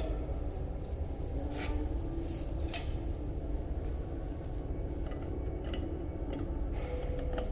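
A steady low rumble with several light clinks and taps scattered through it.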